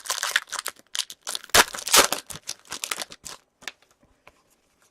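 Foil hockey-card pack wrapper crinkling and tearing as a pack is opened and the cards handled, dense for about three and a half seconds, then a few light clicks.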